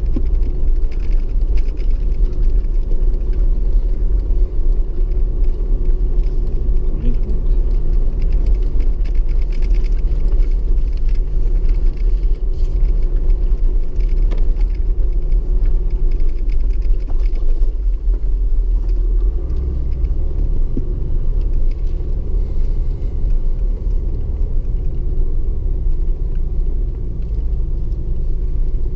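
Toyota Land Cruiser HDJ80 turbo-diesel straight-six running steadily at low revs while crawling over a rough rocky track, a heavy low rumble with scattered light knocks and rattles, heard inside the cabin.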